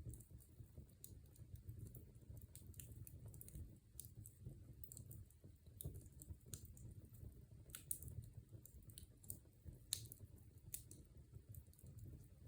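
Wood fire crackling in a fireplace: quiet, irregular snaps and pops, a few sharper ones about eight and ten seconds in, over a low, steady rumble of the flames.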